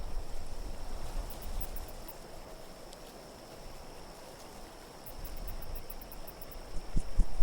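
Low, steady wind rumble in a snowy-night ambience, with faint high tinkling twice. Near the end, a run of sharp knocks begins.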